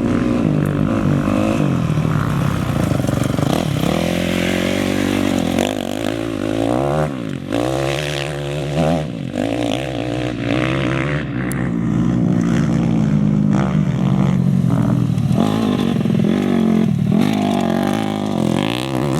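Off-road race vehicle engines running loud and revving, their pitch rising and falling repeatedly as they accelerate and shift.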